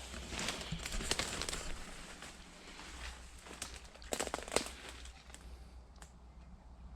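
Someone pushing on foot through thick undergrowth: rustling and crackling of leaves and twigs, with sharp snaps about a second in and again around four seconds in, settling down near the end.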